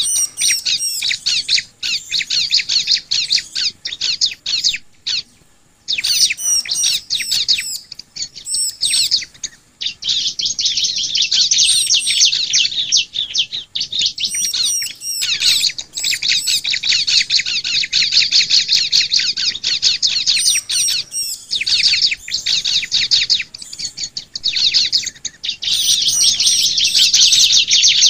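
Bar-winged prinias (ciblek) singing: rapid, high chattering trills in long runs broken by short pauses, with sharp higher chirps over them.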